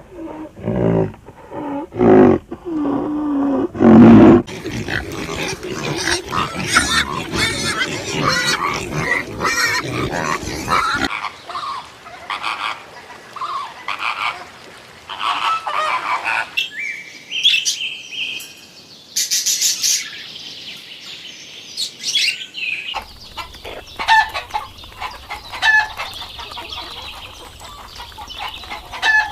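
A run of different animals' calls and cries, one short clip after another, changing abruptly several times.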